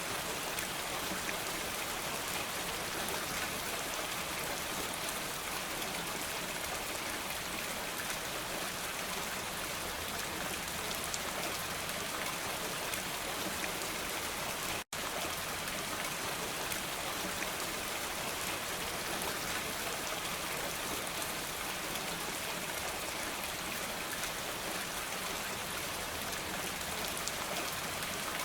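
Steady, even rain hiss, with a split-second dropout to silence about fifteen seconds in.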